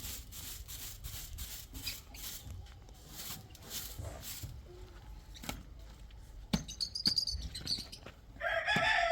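A rooster crows loudly near the end, a long call falling in pitch. Before it there is a run of light taps and, a little earlier, some high chirps.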